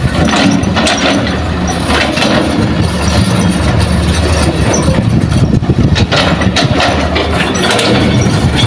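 Heavy diesel engine of earthmoving machinery at a mine loading site running steadily, with scattered short rattles and scrapes.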